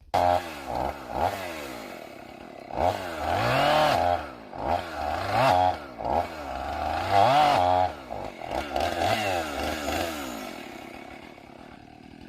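Two-stroke chainsaw cutting oak firewood logs, its engine speed rising and falling about six or seven times, then dropping lower and fainter near the end.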